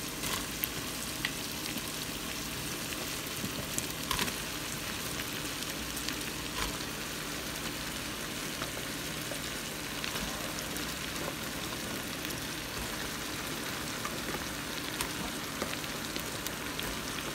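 Browned sausage, bacon and onions sizzling in an Instant Pot's inner pot, a steady frying hiss with a few sharp clicks.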